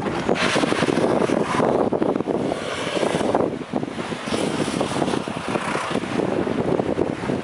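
Wind buffeting the microphone in loud, uneven gusts.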